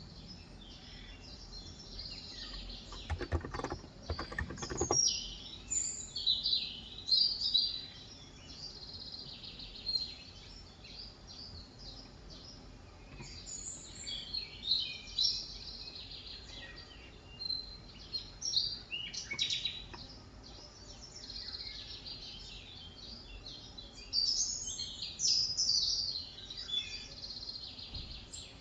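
Birds chirping outside in repeated short bursts over a steady hiss of rain. A brief broader noise sounds about three to five seconds in.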